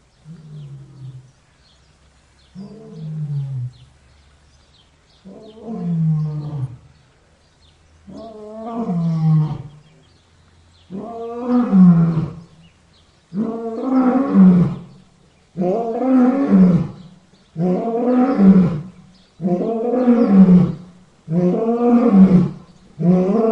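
A large animal calling in a long bout: about a dozen drawn-out calls, each falling in pitch, roughly every two seconds, building from soft to loud over the first several calls.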